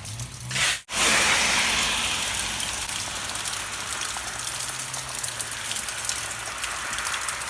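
Steady rain falling, a dense even hiss of rainfall that comes in suddenly after a brief cut about a second in.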